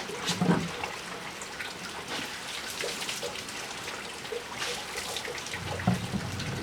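Water running and splashing, with many small scattered splashes and ticks.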